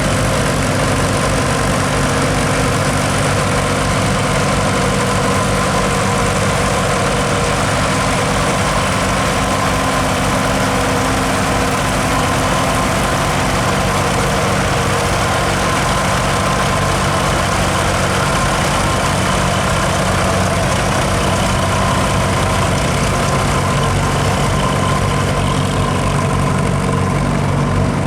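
Diesel tractor engine running steadily at a constant speed, with no revving.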